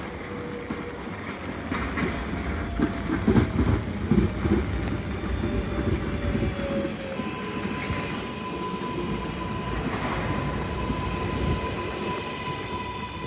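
New York City subway L train running at the station, its wheels rumbling and clattering over the rail joints with a wheel squeal for the first half. Partway through, a steady high whine sets in and holds.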